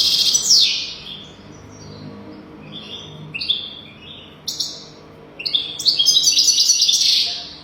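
European goldfinch singing: fast, high twittering phrases with quick trills. The loudest phrases come at the very start and again from about five and a half seconds in until shortly before the end, with softer short phrases between them.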